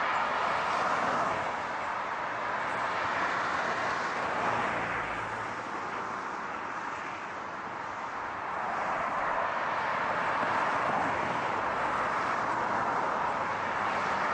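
Steady rushing road noise of a car driving, with no distinct engine note; it eases slightly in the middle and builds back up.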